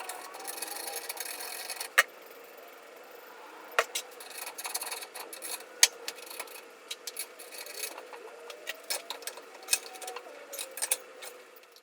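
Homemade belt-grinder buffing attachment spinning with a steady faint whine, with irregular sharp clicks and rattles that come more often in the second half. The rattle fits the arm bouncing from an off-balance shaft, which he puts down to a lock washer sitting off kilter.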